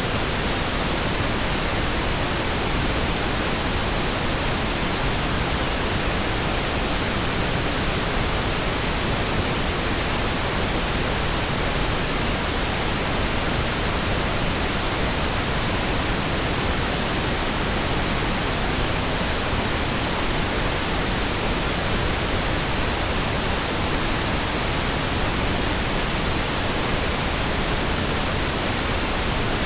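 Synthetic pink noise: a steady, even hiss spread across all pitches, with no changes or events.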